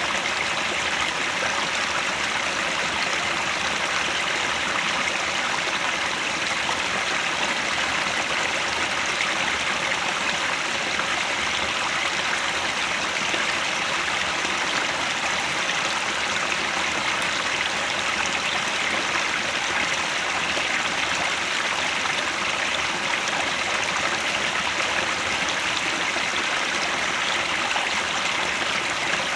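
A mountain headwater stream flowing and splashing over rocks, a steady, even rush of water without a break.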